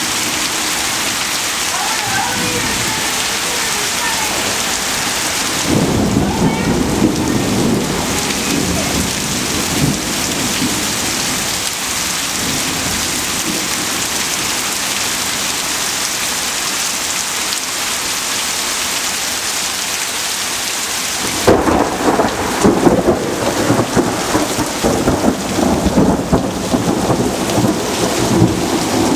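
Heavy rain pouring steadily during a thunderstorm, with rumbles of thunder swelling about six seconds in and again about two-thirds of the way through.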